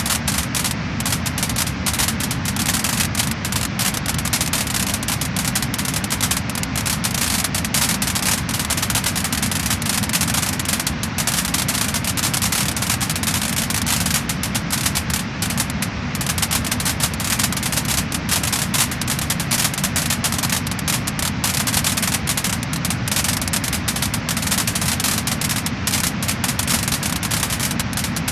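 Wood fire crackling and popping, with dense, irregular crackles over a steady hiss.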